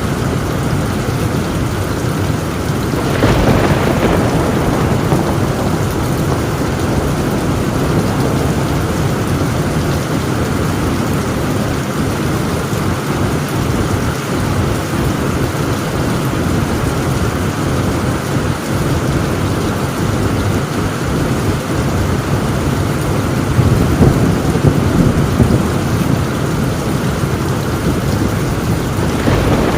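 Heavy rain pouring steadily on a tin roof, with a sudden clap of thunder about three seconds in and a rolling rumble of thunder swelling later on.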